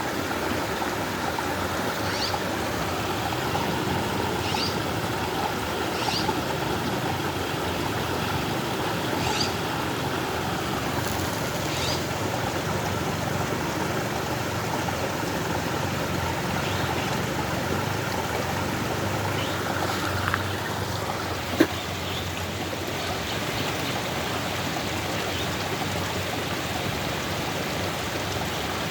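Creek water rushing steadily through a culvert, a creek running high with rain and snowmelt. A few short high chirps sound in the first half, and there is a single sharp click a little past two-thirds of the way through.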